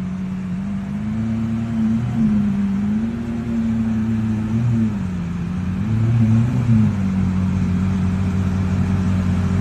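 A car engine idling and being blipped a few times, its pitch rising and falling, then settling back to a steady idle about seven seconds in.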